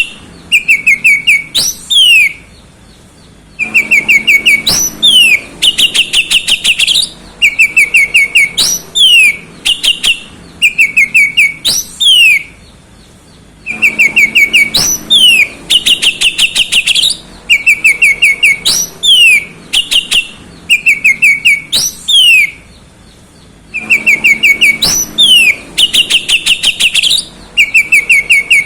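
Oriental magpie-robin (kacer) singing loudly in fast bursts of repeated short whistled notes, trills and sweeping whistles, with a short pause roughly every ten seconds as the same phrase sequence starts over.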